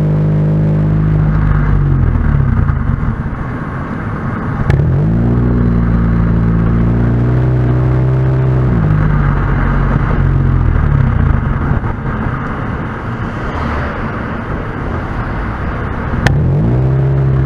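Honda Vezel Hybrid's 1.5-litre four-cylinder engine running through an aftermarket ROZA muffler while driving. Its steady drone fades out twice into road noise, and each time it comes back with a click and a rising note, about five seconds in and again near the end.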